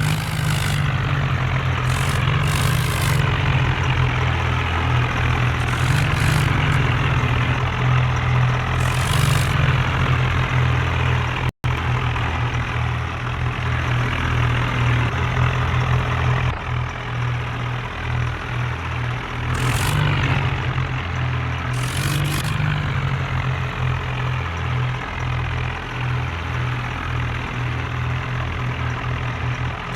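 Tractor engine running steadily with a fast, even firing pulse, with short bursts of hiss now and then. The sound cuts out for an instant partway through.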